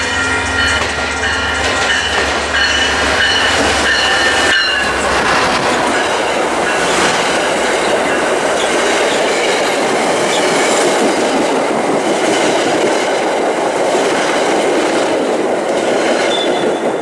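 An MBTA commuter train passing close by at speed. For the first four and a half seconds the diesel locomotive's low engine throb and a held chord of steady tones go by, then cut off. After that the coaches' wheels clatter and rush on the rails without a break.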